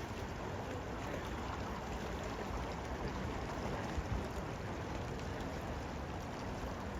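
Steady rush of a flowing river, with some low wind rumble.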